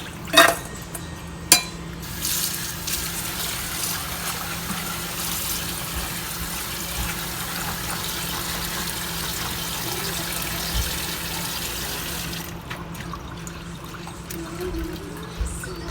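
Water running steadily while freshly picked green bird's eye chilies are rinsed clean of soil, cutting off suddenly about twelve seconds in. Two sharp knocks come in the first couple of seconds.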